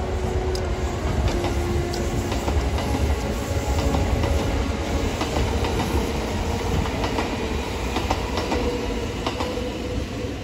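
Kintetsu limited express electric train running past, with a steady rumble and wheels clicking over the rail joints.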